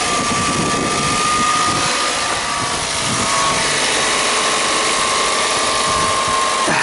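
Toyota Camry XV70 engine idling steadily, heard close up from the engine bay with a mechanical clatter and a faint steady whine. It keeps running now that the alarm's immobiliser radio relay, whose failure made the car start and stall, has been disconnected.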